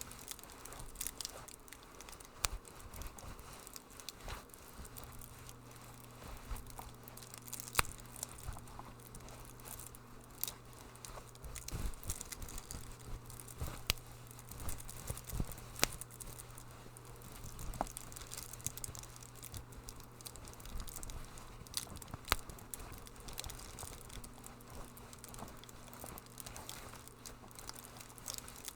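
Wood fire crackling in a fireplace, with irregular sharp pops and snaps over a soft hiss.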